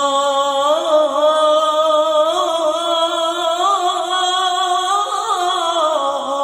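A male singer holding a long, drawn-out vocal line in an Arabic song. The pitch wavers and slides between notes without a break for breath.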